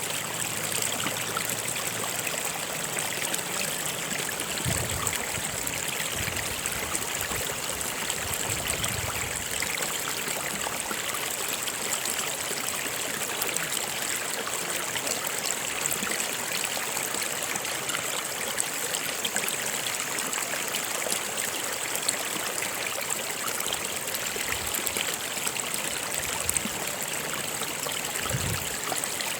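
Stream water flowing steadily, an even, continuous rush of water.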